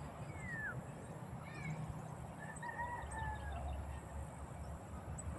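A rooster crowing faintly, one drawn-out call about two and a half seconds in, with a couple of shorter falling calls before it and faint high bird chirps over a steady low rumble.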